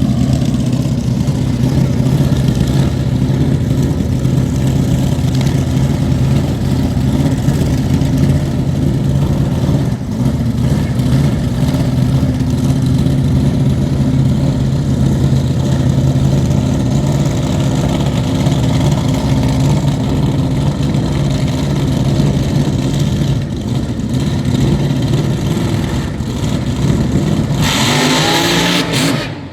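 Drag-race car engine running steadily at a loud idle for most of the time. Near the end it revs up sharply, then the sound cuts off suddenly.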